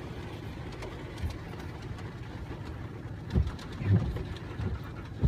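Steady low rumble of a car's road and engine noise heard from inside the cabin while driving, with a few short, louder low sounds about three and a half and four seconds in.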